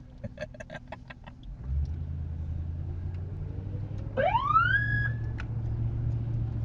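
A string of sharp clicks, then a V8 engine rumbling steadily from about two seconds in, from a Ford Crown Victoria Police Interceptor. About four seconds in, its siren gives one short rising whoop that levels off and stops.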